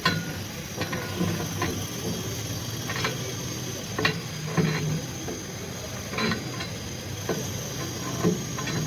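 Irregular metal knocks and clanks, a second or two apart, from work on a damaged truck's body, over a steady low hum.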